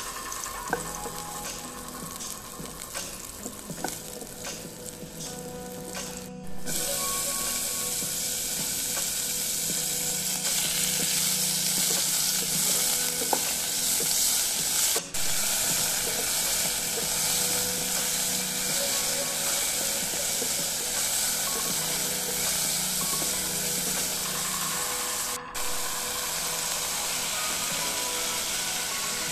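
Chopped garlic, and then pieces of meat, sizzling in a frying pan while being stirred with a wooden spatula. The sizzle becomes much louder about six seconds in.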